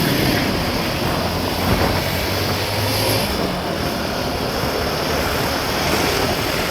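Vehicle on the move: steady engine hum and road and wind noise, the hum fading a few seconds in.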